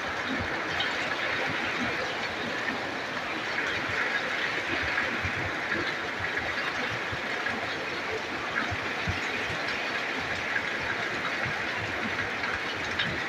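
Heavy rain falling steadily in a dense, even hiss, with scattered soft knocks from nearby drops.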